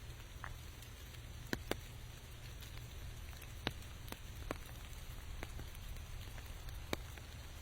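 Light rain: a steady, even hiss broken by a handful of sharp, separate ticks of single drops striking close by, the loudest about a second and a half in and again near the end.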